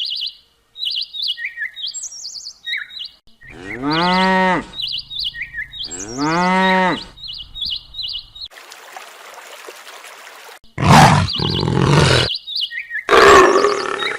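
Small birds chirping, then a cow mooing twice, each moo about a second long with a rising then falling pitch. Near the end come two loud, harsh animal calls.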